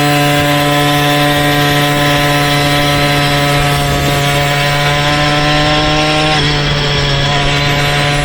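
Motorized bicycle's small engine running at a steady, high speed, with a slight drop in revs about six seconds in.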